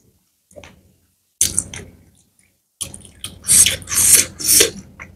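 Wet chewing and lip smacking on a mouthful of chicken curry and noodles: a short burst about one and a half seconds in, then a run of loud wet smacks from about three seconds on.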